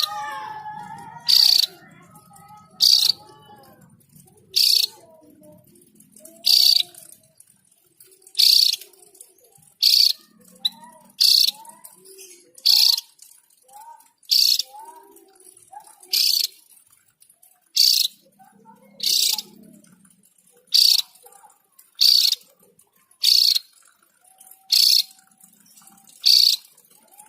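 Javan grey-throated white-eye (opior jawa) giving a short, sharp, high call over and over at an even pace, about one every second and a half, with fainter chirps between the calls.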